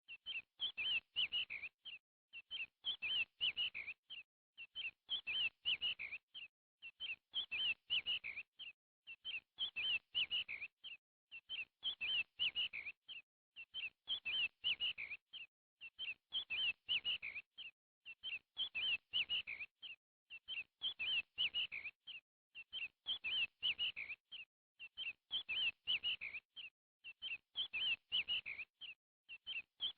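Bird chirping, the same short phrase of quick chirps repeating evenly about every two seconds.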